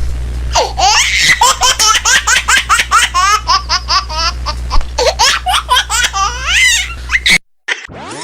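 Long run of quick, high-pitched laughter, several bursts a second, over a low steady hum; it cuts off suddenly near the end, and a rising swoop begins just after.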